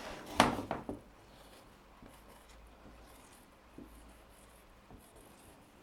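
A pen writing, a faint scratching, after a couple of short knocks in the first second.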